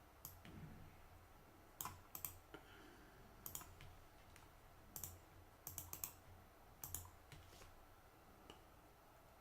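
Faint computer keyboard keys clicking: a dozen or so scattered keystrokes in small clusters, with pauses between them.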